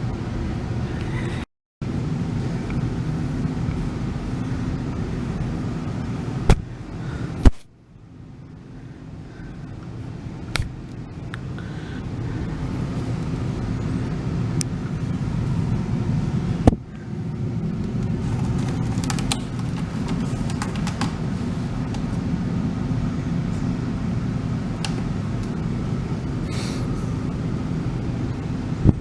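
A cat rubbing and bumping its head against the camera: a steady low rumble close to the microphone, broken by sharp knocks about six and a half, seven and a half and seventeen seconds in.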